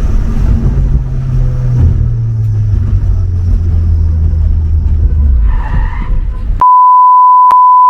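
Mitsubishi Lancer Evolution IV's turbocharged four-cylinder engine and road noise, the engine note falling as the car slows. About six and a half seconds in, the car sound cuts out and a steady one-tone censor bleep takes its place.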